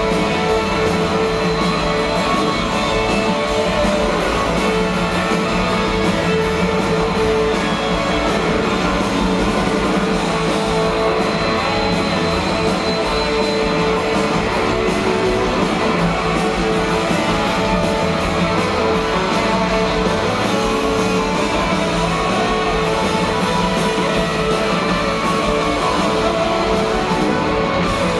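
Live rock band playing with strummed electric guitars, steady and loud with no break.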